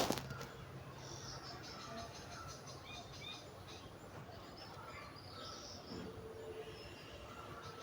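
Faint outdoor ambience of small birds chirping and insects calling, with a sharp click at the very start.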